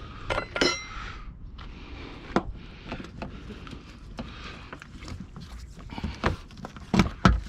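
Scattered clicks and knocks of hand tools and plastic trim parts being handled, with a metal tool clinking and briefly ringing about half a second in and two loud knocks near the end.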